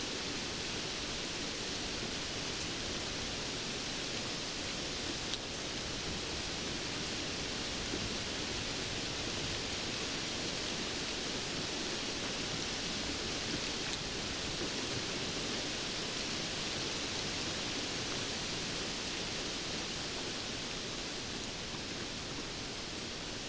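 Steady, even rain noise, a dense hiss with no distinct drops or thunder, and one faint tick about five seconds in.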